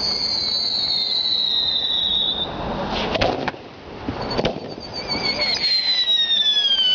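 Fireworks going off: two long whistles that slowly fall in pitch, one at the start and another from about five seconds in, with sharp bangs a few seconds in and near the end.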